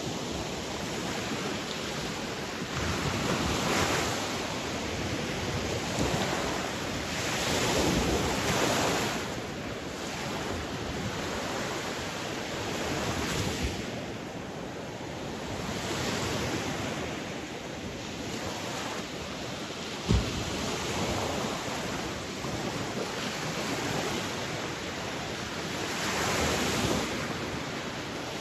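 Sea waves breaking: a steady rush of surf that swells and falls back every few seconds. A single brief knock about two-thirds of the way through.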